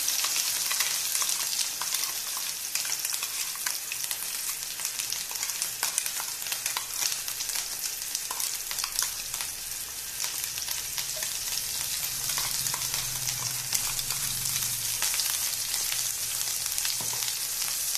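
Ground onion-and-spice masala paste frying in hot oil with cumin seeds and bay leaves in a non-stick kadai: a steady sizzle with scattered crackles as the paste is spooned in.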